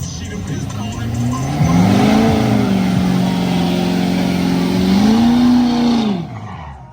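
Truck doing a burnout. The engine revs up about a second and a half in and holds at high revs over a haze of spinning-tyre noise, climbs once more, then drops off and fades near the end.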